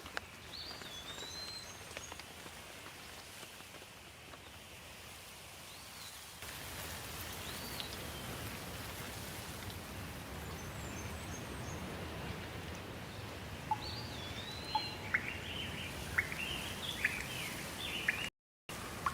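Steady rain hiss that grows louder about six seconds in, with birds calling over it in a few rising-and-falling whistles, then a quick run of sharp chirps near the end.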